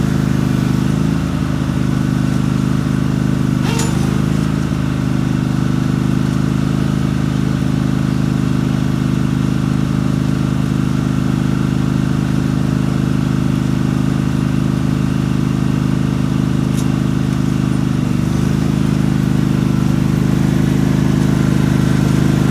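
Mini tractor engine running at a steady speed while pulling a homemade tiller through the ground. Two faint clicks come through, about four seconds in and near seventeen seconds.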